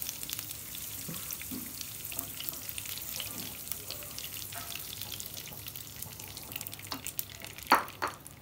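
Prawns frying in a shallow pool of hot oil, a steady crackling sizzle, while a wooden spatula stirs and lifts them out of the pan. One short, sharp knock near the end.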